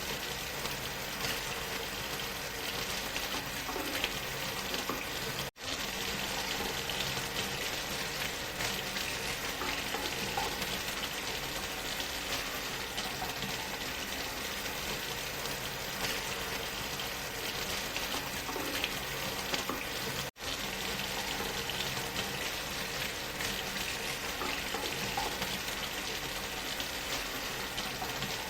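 Steady rushing of a waterfall blended with white noise, an even hiss with no rhythm. It cuts out for an instant twice, about five seconds in and again about twenty seconds in.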